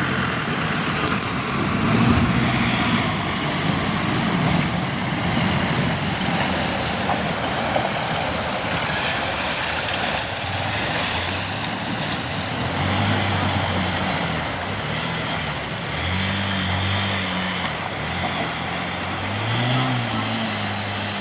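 Motor vehicle engines running, their pitch rising and falling now and then, over a steady rushing noise.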